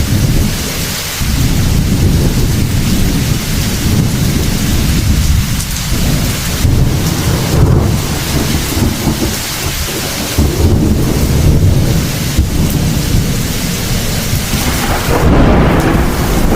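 Heavy rain falling steadily with thunder rumbling, the low rumble swelling and easing several times.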